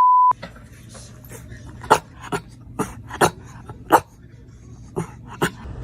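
A dog giving about seven short, sharp barks, unevenly spaced. A brief steady beep sounds right at the start.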